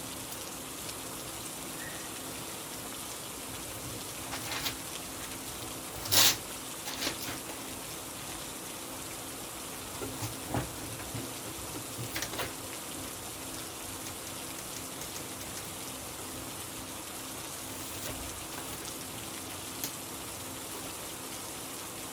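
Steady rain, an even hiss, with a few sharp knocks or taps over it, the loudest about six seconds in and a cluster around ten to twelve seconds.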